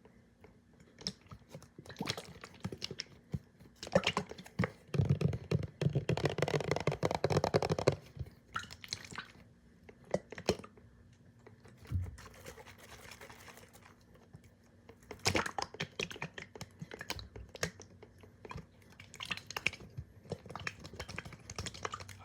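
Fast, wet clicking and crackling close to the microphone, irregular and stop-start, with a dense rapid run of crackles from about four to eight seconds in.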